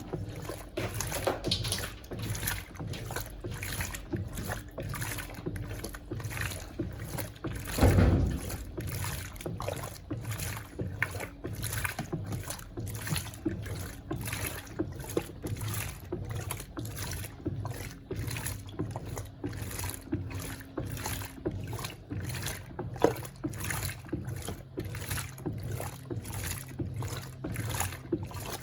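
Electrolux LTC07 top-loading washing machine agitating on its low water level: the agitator churns the water and clothes in a steady, even rhythm of swishes over a low motor hum. There is one louder thump about eight seconds in.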